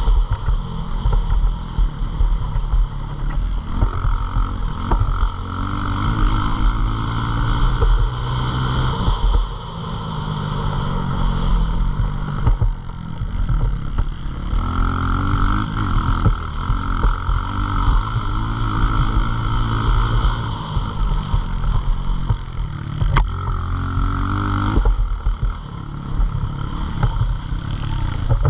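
Pit bike engine running under load, its revs climbing and dropping again several times as the bike is ridden.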